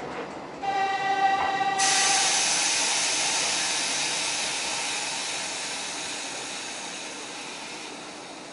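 Suburban electric train: a pitched tone of about a second, then a sudden loud hiss of air that fades away slowly over several seconds.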